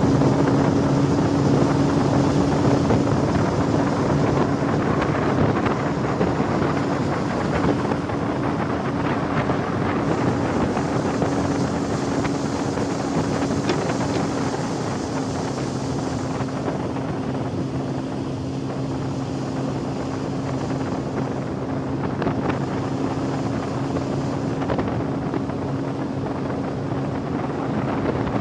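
A boat's motor running at a steady hum, with wind buffeting the microphone over it.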